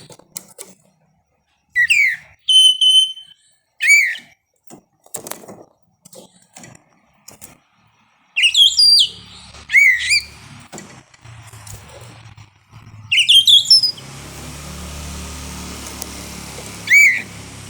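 Oriental magpie-robin (kacer) singing: loud, sweeping whistled notes in short phrases with pauses between, including one held whistle about two seconds in. A steady low rumble comes in under the song about fourteen seconds in.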